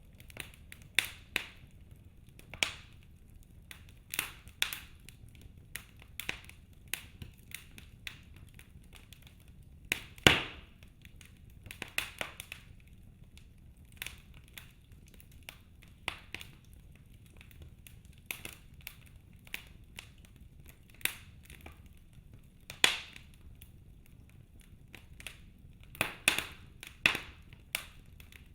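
Wood fire in a fireplace crackling: burning logs giving irregular sharp pops and snaps, the loudest one about ten seconds in and a quick cluster of pops near the end, over a faint steady low rumble.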